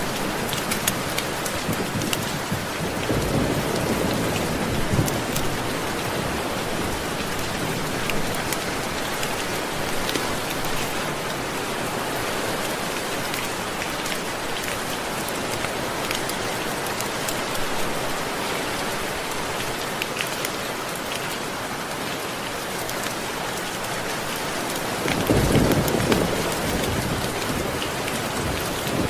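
Steady heavy rainfall with scattered sharp drop ticks, and a low roll of thunder twice: about three seconds in and again near the end.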